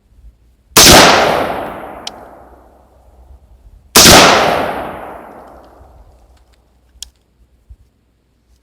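Two gunshots about three seconds apart, each very loud and fading away over a couple of seconds, with a faint click near the end.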